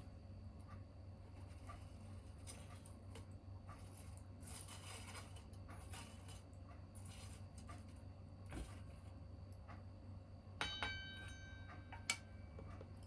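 Faint, scattered crackling of a small tabletop wood fire over a steady low hum. About three-quarters of the way through comes a ringing clink that dies away over about a second, then a single sharp click.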